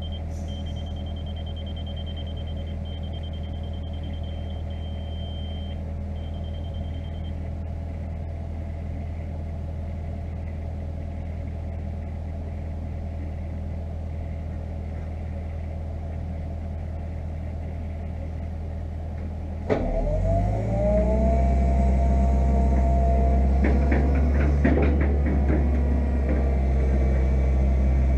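Fiat-Hitachi EX165 tracked excavator's diesel engine idling steadily, with a thin high tone over the first several seconds. About two-thirds through, the engine revs up under hydraulic load with a rising whine, then works on with a few clanks.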